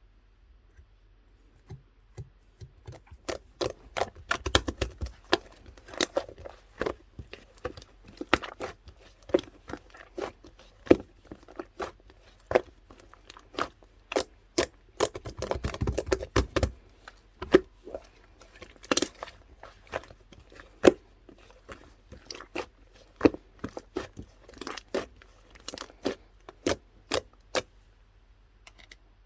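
Green slime being squeezed and pressed by hand, giving a long irregular run of sharp pops and clicks as air pockets burst. Now and then there are quieter squishing stretches.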